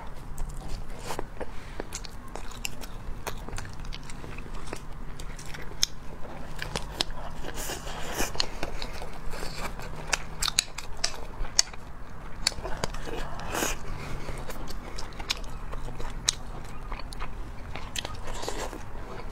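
Close-miked chewing and crunching as a person eats egg fried rice with crisp bits of scorched rice crust, with many small, irregular crunches and mouth clicks.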